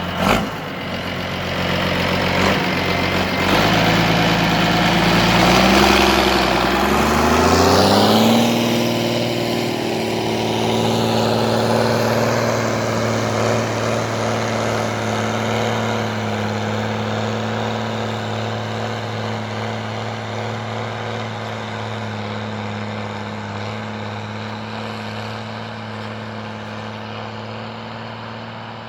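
Mercedes-Benz OM366 inline-six diesel in an MTZ 1220.1 tractor running. A sharp knock just after the start, then the engine speed rises in steps over the first eight or nine seconds and holds steady at the higher speed.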